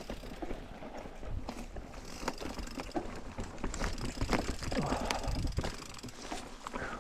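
Mountain bike riding over rocky singletrack: a stream of irregular clicks and knocks from the tyres and bike going over stones, over a steady low rumble.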